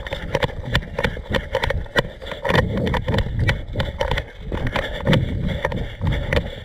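Irregular knocks, thumps and rattles, several a second, from footsteps and carried gear jostling as the camera wearer moves quickly on foot, over a low rumble on the microphone.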